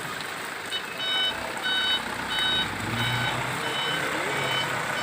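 Dump truck's reversing alarm beeping over and over, about one beep every 0.7 seconds, starting about a second in. Behind it are a steady hiss of rain and the truck's engine running.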